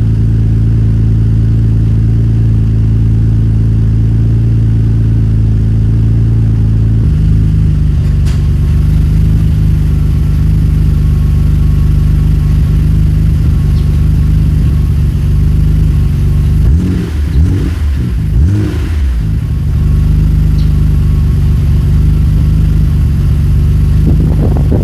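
Nissan Skyline GT-R's twin-turbo straight-six idling on a cold start through a Midori Seibi titanium exhaust. It runs steadily. The note shifts about seven seconds in, and wavers up and down briefly about two-thirds of the way through.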